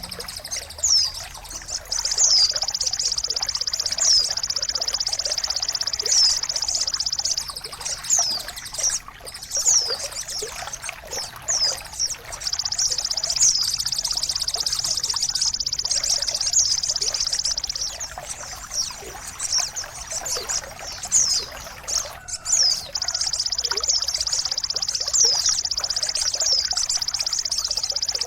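Birdsong over steady trickling, pouring water: short high whistles that slide downward, repeated many times, alternating with three long, high, rapid trills of several seconds each.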